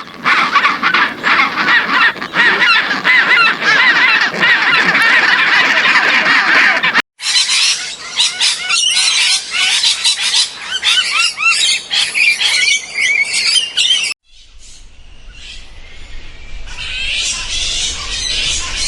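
A flock of birds calling in dense, overlapping chatter, with honking calls. The sound cuts sharply to a higher-pitched, chirpier flock about seven seconds in, then drops to a much quieter stretch about fourteen seconds in, with chirping building again near the end.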